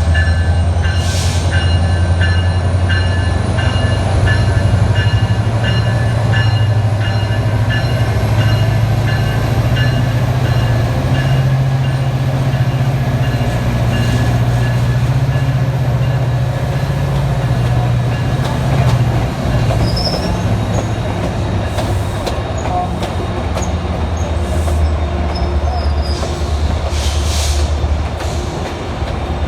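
Metro Gold Line light rail train running on the track: a steady low motor hum and rail noise, with a few brief high wheel squeals in the second half.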